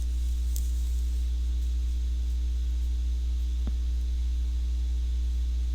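Steady low electrical hum, like mains hum picked up by the recording, with a faint click a little before four seconds in.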